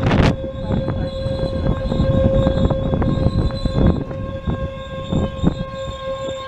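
Passenger train rolling slowly past a small station, its wheels clicking over the rail joints, with a steady high tone held throughout.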